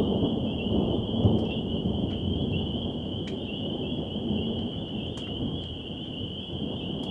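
Thunder rumbling low and continuous during a thunderstorm, swelling about a second in and then easing off. A steady high-pitched drone and a few scattered sharp ticks sit over it.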